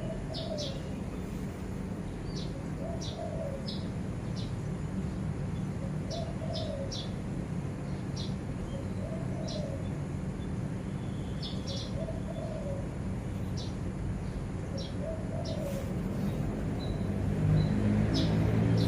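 Birds calling: a low cooing note, typical of a dove, repeated about every three seconds, with short high chirps from small birds between the coos. A steady low hum runs underneath, and a louder low rumble builds near the end.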